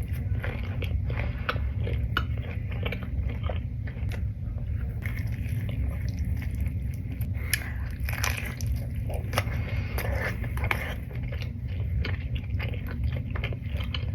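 Close-miked chewing and biting of pizza: irregular bites and wet mouth clicks over a steady low hum.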